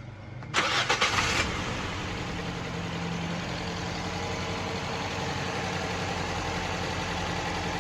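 Toyota Corolla GLI's engine cranking briefly about half a second in, catching, and settling into a steady idle.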